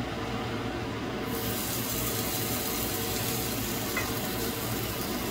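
Naan dough frying on a hot dry non-stick pan, a steady sizzle. The sizzle turns brighter and hissier about a second in, as the dough is flipped with tongs and its uncooked side lands on the pan.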